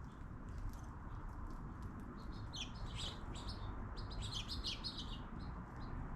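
Small birds chirping, with a quick run of short high chirps in the middle, over a steady low background rumble.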